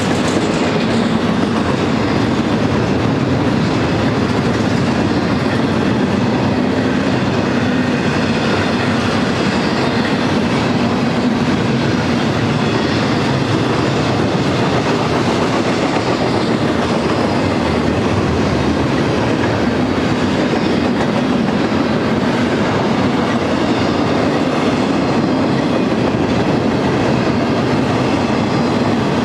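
Double-stack intermodal freight train's well cars rolling past: the steady, loud noise of steel wheels on the rails.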